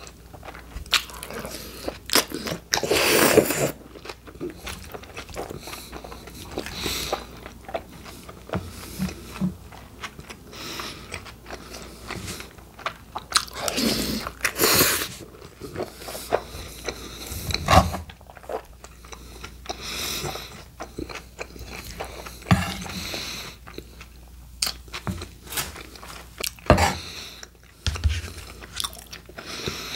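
Close-miked eating of a steak burrito's filling: wet chewing and biting with crunching of forkfuls of lettuce, coming in irregular bursts with a few louder bites.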